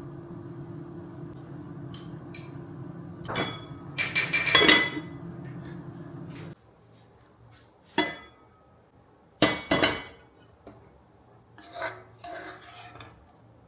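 Dishes, glassware and cutlery clinking and knocking several times, loudest about four to five seconds in and again near ten seconds. Under them runs a steady low hum that cuts off suddenly about six and a half seconds in.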